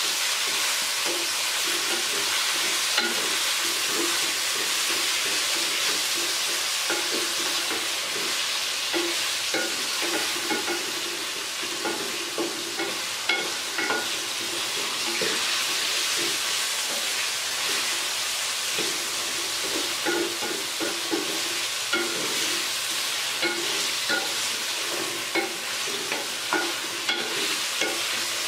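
Chicken pieces sizzling as they fry in hot oil in a metal wok, while a wooden spatula stirs and scrapes them around the pan. The spatula knocks against the pan now and then, more often in the second half.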